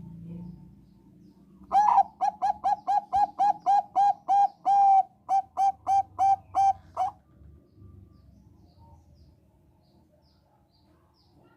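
Zebra dove (perkutut bangkok) singing: a run of about twenty short, clipped cooing notes, about four a second, with a brief break midway. It ends about seven seconds in.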